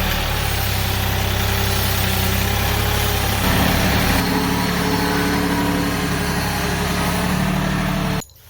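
Engine running at a steady speed, its pitch shifting a little a few seconds in, then cutting off abruptly near the end.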